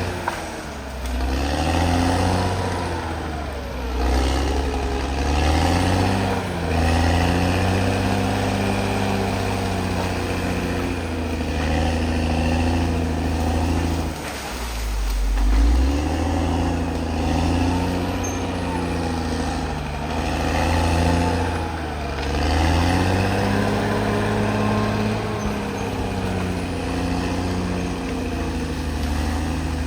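CAT D6R XL bulldozer's diesel engine working under load, its pitch rising and falling every few seconds as it pushes and eases off.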